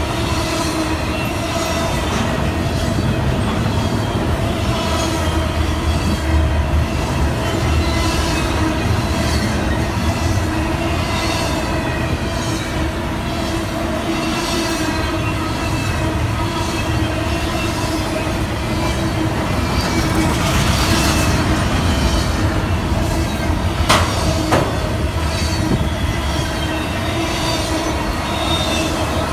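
A long freight train's cars rolling past, wheels clacking in a steady rhythm over the rail joints. A continuous squeal comes from the wheels on the rails, and there is a sharp click near the end.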